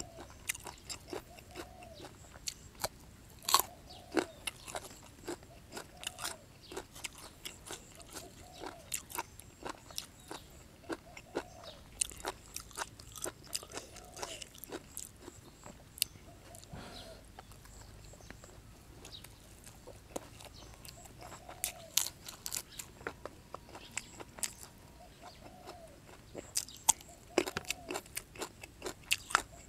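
Close-miked chewing and biting of a person eating raw beef with sticky rice: wet mouth sounds and irregular crisp crunches, denser and louder near the end.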